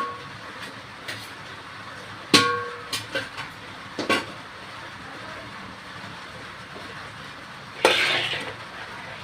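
Steel kitchen utensils clanking: one loud ringing clank about two seconds in, a few lighter knocks just after, and a short scraping clatter near the end, over a steady background rumble.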